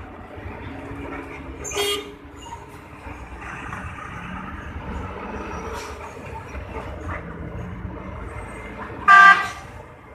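A vehicle horn honks twice over a steady rumble of engines: a brief toot about two seconds in, and a louder, longer honk near the end.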